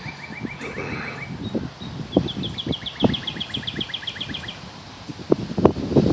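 A songbird singing two fast trills of short repeated notes, the first right at the start and a longer one about two seconds in. Soft knocks and rustles run underneath, getting louder near the end.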